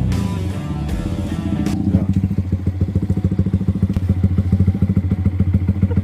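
Background music ends about two seconds in. Then a Yamaha R15's single-cylinder engine idles steadily through an SC Project aftermarket racing exhaust, a rapid, even pulsing of exhaust beats.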